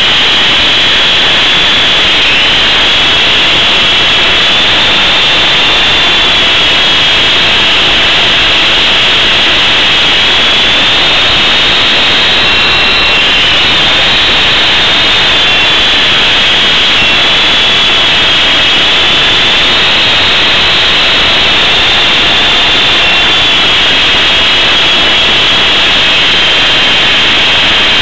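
Esky Big Lama coaxial RC helicopter flying on its two brushless motors: a loud, steady high motor whine that drifts slightly up and down in pitch with throttle, over the rush of the rotors.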